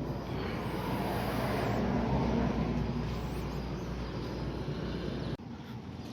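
Steady vehicle engine noise with a low hum, swelling slightly about two seconds in and dropping abruptly near the end.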